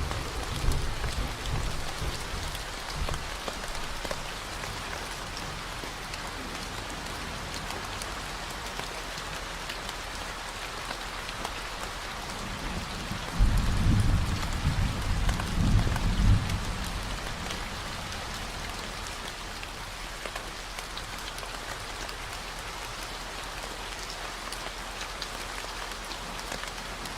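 Steady rain falling, mixed with a continuous low 40 Hz tone. Low rumbles of thunder come in at the start and again about halfway through.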